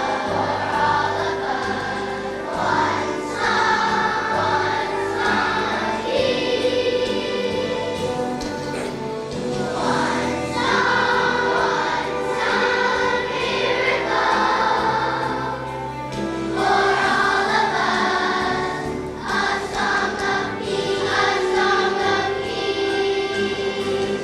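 Children's choir singing a song in unison, with musical accompaniment.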